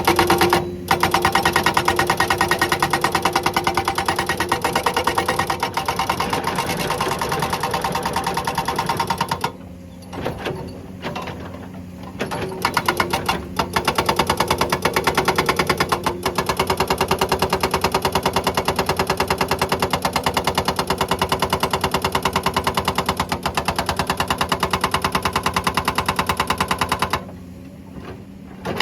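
Hydraulic breaker on a Komatsu excavator hammering rock in rapid, even blows over the excavator's steady engine drone. The hammering pauses for about three seconds near the middle, with a few short bursts, then runs again until shortly before the end.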